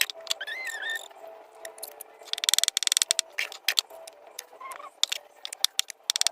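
Chickens and ducks feeding: rapid pecking and bill-dabbling clicks, in dense buzzy runs, with a short wavering call near the start.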